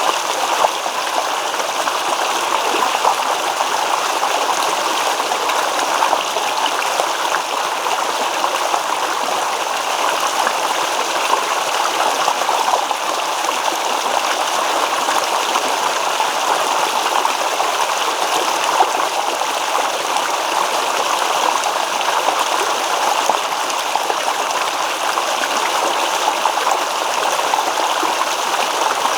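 Babbling stream: water running and rippling over stones in a steady, unbroken rush.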